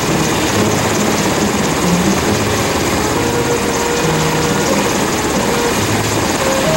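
Helicopter running close by: a loud, steady rotor and engine noise with no letup.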